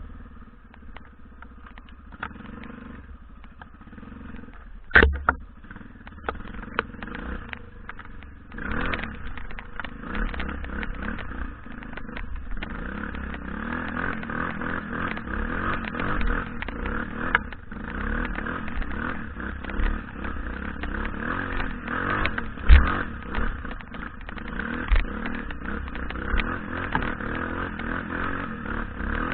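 BM Enduro 250 dirt-bike engine running and revving unevenly while riding over rough ground, growing louder from about a third of the way in. Two sharp knocks stand out, about five seconds in and again later on.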